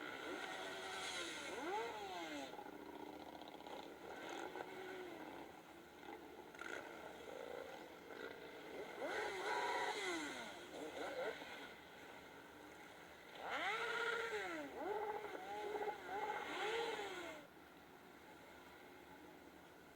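Motorcycle engine revving up and dropping back several times, with short blips and a longer run of repeated revs near the end, idling in between.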